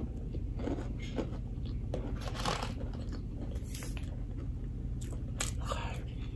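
Chewing a mouthful of crispy fried chicken sandwich, with irregular crunches and wet mouth sounds over a steady low hum.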